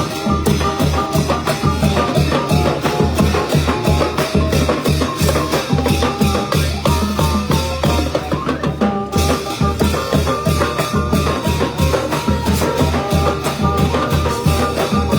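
Thai village brass band (trae wong) playing a fast procession tune: brass melody over a driving, evenly pulsed drum beat.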